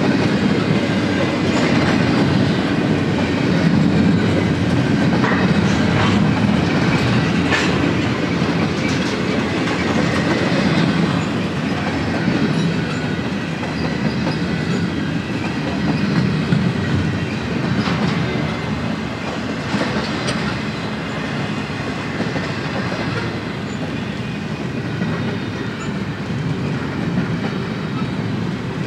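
A long train of empty double-stack well cars rolling past: a steady rumble of steel wheels clacking over the rail joints, with occasional sharp clanks.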